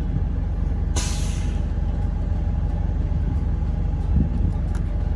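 Diesel semi-truck idling with a steady low rumble; about a second in, a short hiss of compressed air from the truck's air-brake system.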